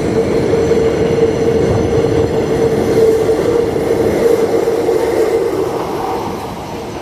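New York City subway train running past on elevated track: a loud rumble and rattle of wheels on rail with a steady whine over it, fading away near the end.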